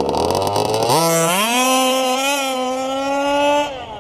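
Small two-stroke gas engine of a 1/5-scale FG RC drag car revving up quickly about a second in and holding one high, steady pitch at full throttle, then dropping away sharply near the end. The pitch stays flat because the two-speed gearbox is not shifting into second.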